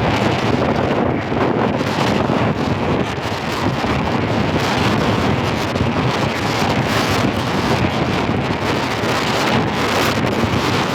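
Wind buffeting the microphone, steady and loud, over a low steady rumble.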